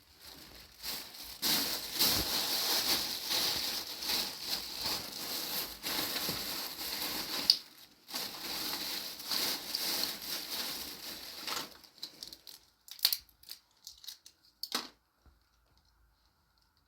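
Rustling and crunching of material being handled or crumpled, in two long stretches, followed by a few separate sharp clicks.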